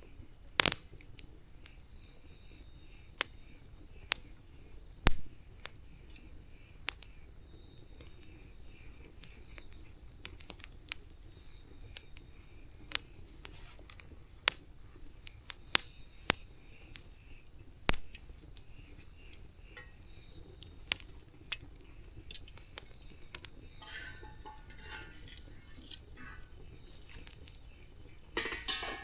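Wood campfire crackling: sharp, irregular pops and snaps over a low steady hiss of burning, with a couple of louder pops early on and a denser burst of crackling near the end.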